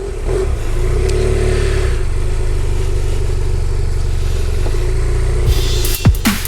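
BMW motorcycle engine running steadily. Near the end, electronic music with falling swoops cuts in.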